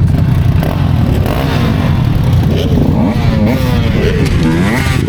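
Motorcycle engine running with a steady low rumble. From about a second and a half in, the revs climb and drop in quick repeated glides.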